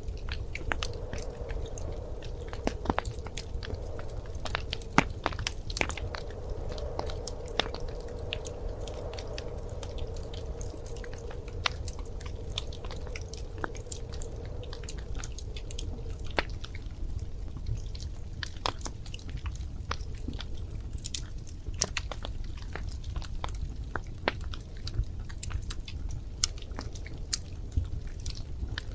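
Wood fire crackling in a fireplace: irregular sharp pops and snaps over a steady low rumble, with a faint wavering hum during the first half.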